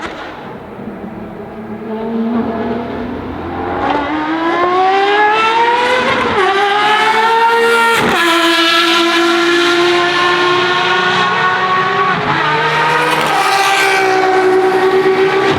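Ferrari FXX Evoluzione's V12 accelerating hard, its note climbing as it grows louder, with sharp drops at upshifts about six and eight seconds in. It then holds a high, nearly steady note, with a brief dip a few seconds before the end.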